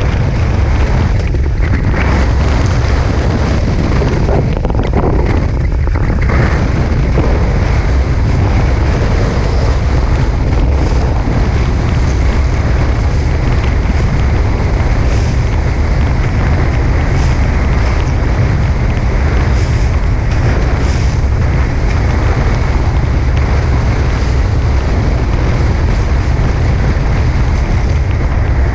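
Steady, loud wind buffeting an action-camera microphone, with water rushing past the hulls of a Tornado catamaran sailing fast in strong wind.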